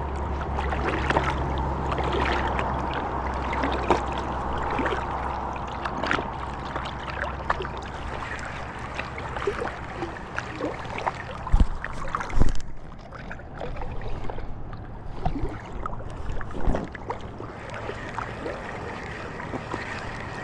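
Water lapping and splashing around a small pontoon fishing boat, with scattered small knocks and a few louder thumps about halfway through. A low steady hum runs under the first several seconds, then fades out.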